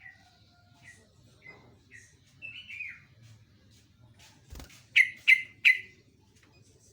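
Yellow-vented bulbul (trucukan) calling: a few short chirps, then a brief warbling phrase. Near the end come three loud, sharp notes in quick succession, just after a soft click.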